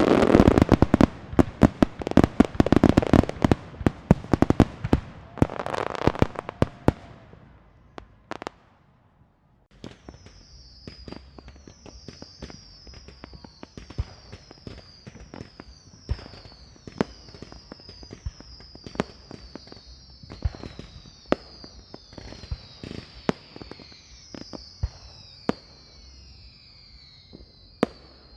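Fireworks: a dense volley of loud crackling bangs for the first several seconds, then after a brief lull, scattered lighter pops and crackles with a string of short, high, falling whistles above them.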